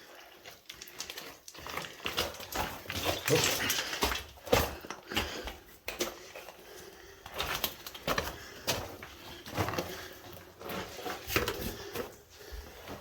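Irregular knocks, scuffs and rustles of a person moving on foot through a mine passage: footsteps and gear on rough ground, with no steady rhythm.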